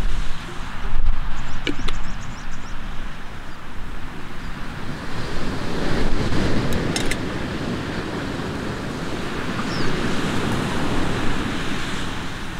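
Wind buffeting the microphone over the rush of surf, a steady noisy roar that swells about halfway through.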